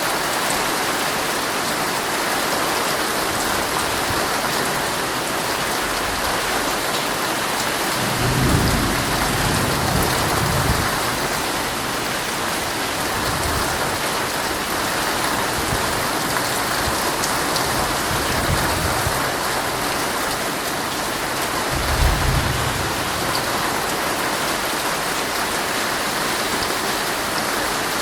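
Heavy rain drumming steadily on a tent's fabric. Two brief low rumbles come through, one about eight seconds in and one about twenty-two seconds in.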